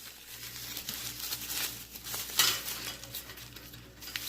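Rustling and light scraping as hands work craft wire and decorations onto a bird cage, loudest about two and a half seconds in.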